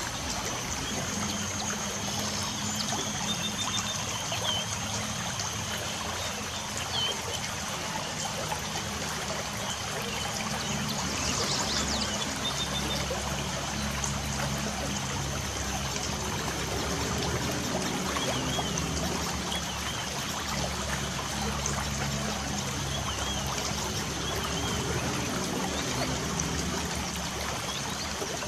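Light rain falling steadily, an even wash of water noise, with scattered faint bird chirps.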